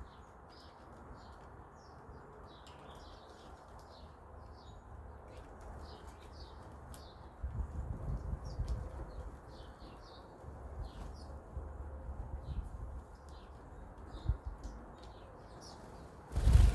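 Small birds chirping with many short, high calls, among bursts of low fluttering and a loud thump near the end.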